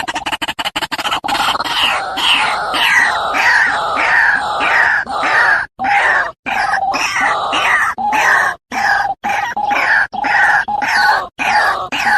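White-breasted waterhen calls from a mixed lure recording: harsh croaking notes repeated two or three a second, broken by several sudden short silences. A fast run of even pulses fades out in the first second.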